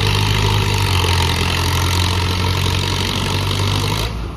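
Antique tractor engine running hard under load while pulling the weight sled. The sound drops off sharply near the end as the pull ends.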